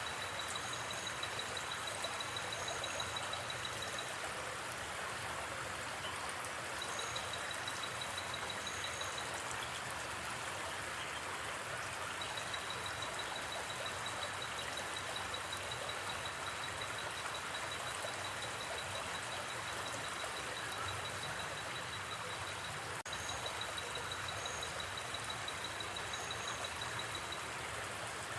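Steady rush of a flowing river. Over it, night insects trill in long high-pitched stretches, with pairs of short, even higher chirps now and then.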